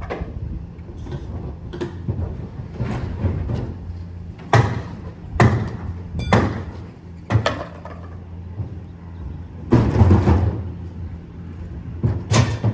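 A garbage truck's diesel engine running steadily, with a series of about six loud bangs and clanks; a longer, noisier clatter comes about ten seconds in.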